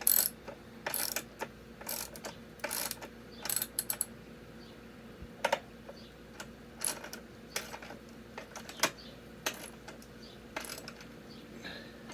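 Ratchet wrench clicking in short, irregular strokes, tightening bolts while an engine is mounted on a motorcycle frame. The strokes come thick in the first few seconds, then more sparsely.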